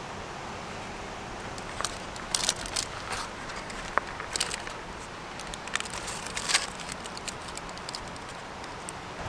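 Freshly lit campfire crackling, with irregular sharp pops clustered between about two and seven seconds in, over a steady background hiss.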